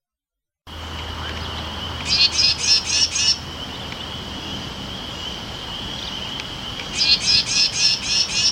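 Carolina wren giving its harsh, angry scold call, a rapid 'brack-brack' chatter of about five notes a second in two bursts, a warning to keep away from its nest. A steady high-pitched tone runs underneath.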